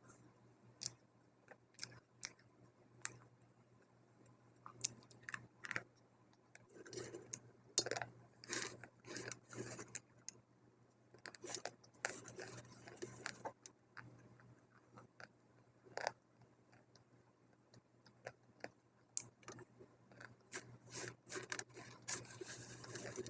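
Dry multani mitti (fuller's earth clay) being bitten and chewed: separate sharp snaps about once a second at first, then bursts of dense crunching.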